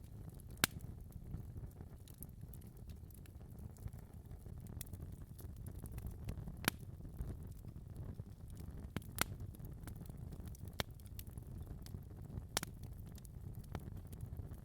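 Wood fire burning in a fireplace: a steady low rumble of flame with sharp crackles and pops at irregular intervals, the loudest about half a second in and near 6.7, 9, and 12.5 seconds.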